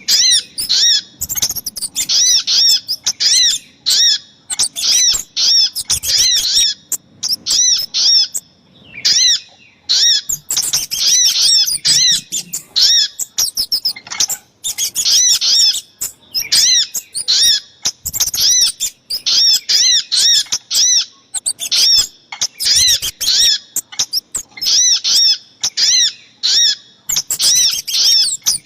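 Bird-lure recording of small birds, a combination of sogok ontong and kemade calls: fast runs of short, high-pitched chirps repeated several times a second, with brief pauses between the runs.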